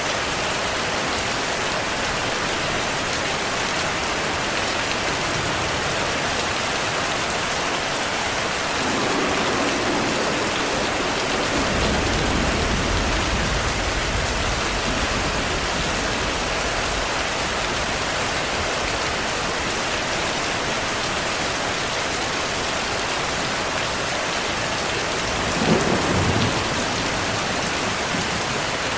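Steady heavy rain with thunder. A low rolling rumble builds about nine seconds in and fades after several seconds, and a sharper, closer thunderclap with a short rumble comes near the end.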